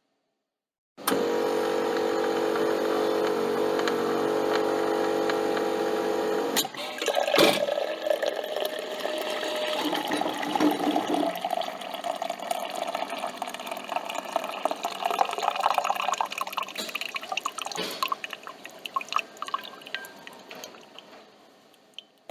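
Coffee machine: a motor hums steadily for about six seconds and stops with a click and a knock, then coffee runs and drips into the cup, tapering off near the end.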